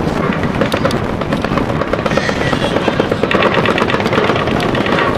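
Machine-gun fire in rapid, irregular bursts over a loud, steady background din.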